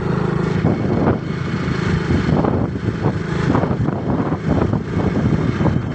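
Motorcycle engine running steadily while being ridden, with irregular short knocks over the engine drone.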